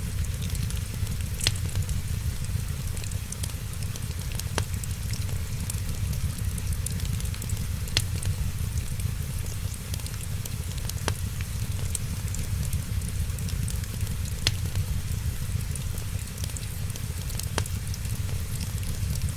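Wood fire crackling, with a sharp pop about every three seconds, over a steady hiss of rain and a low rumble.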